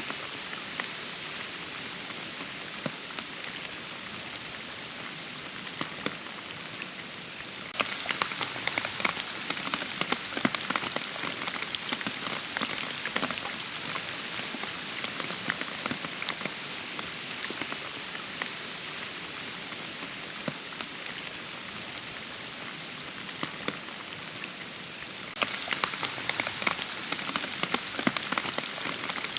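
Steady rainfall, an even hiss dotted with many separate drop hits. It gets suddenly louder and denser about eight seconds in, and again near the end.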